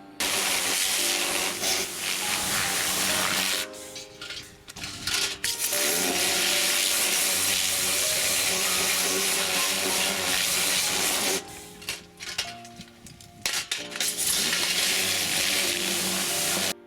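A loud, even rushing hiss, like running water or a spray, switched on and off three times, with background music underneath.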